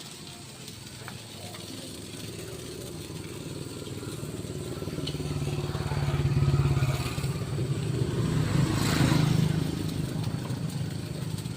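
Motor vehicles passing on the road, their engine sound building, loudest about six and a half and nine seconds in, then fading.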